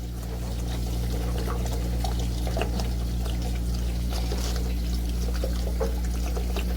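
Water pouring and splashing out of an electric water heater tank through the open lower element port, because the tank was not fully drained. It gets a little louder about half a second in, over a steady low hum.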